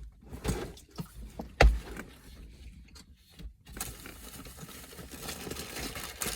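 Food and drink being handled: a few knocks and a dull thump as things are set down, then rustling that begins about four seconds in and grows louder.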